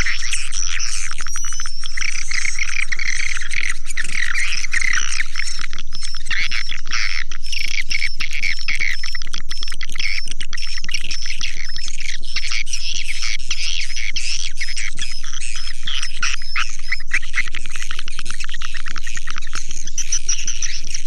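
Dense, unbroken chorus of swiftlet calls: many rapid chirps and twitters overlapping without pause. It is a swiftlet-house calling sound, the kind of recording played to lure swiftlets to nest.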